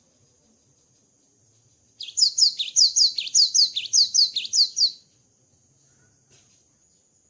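Cinereous tit (gelatik batu) singing a fast run of high notes that sweep downward, about four a second, for about three seconds starting two seconds in. A faint steady high-pitched whine runs underneath.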